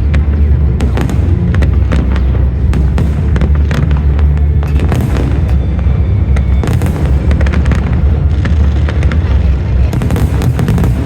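Fireworks display: a rapid, continuous run of bangs and crackles from bursting shells over a steady low rumble, with show music underneath.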